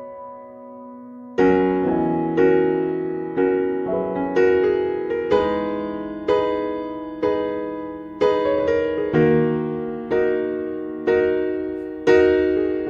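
Background piano music: chords struck about once a second and left to ring, after a short lull at the start.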